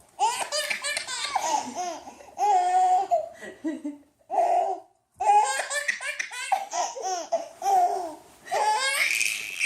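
A baby laughing in repeated high-pitched peals, breaking into a shrill squeal near the end.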